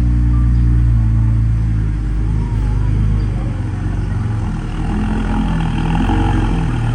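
Heavy machine's diesel engine running under load. Its note holds steady, shifts and breaks up about halfway through, then steadies again near the end.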